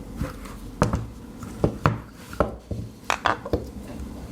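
Metal hard-drive casings being handled, giving a series of irregular sharp clicks and knocks, about eight in all, as the drives are turned over and set against each other or the desk.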